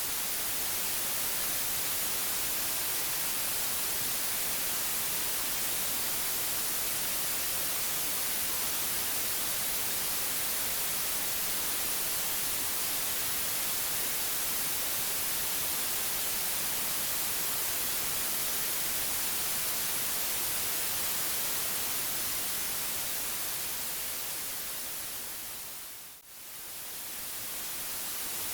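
Steady white noise, an even hiss brightest in the high range, that fades briefly down and back up near the end.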